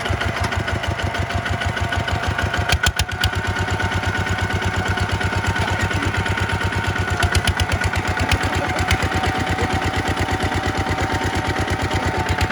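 Tractor engine running steadily with an even, rapid chugging beat of about seven pulses a second. A few sharp clicks about three seconds in.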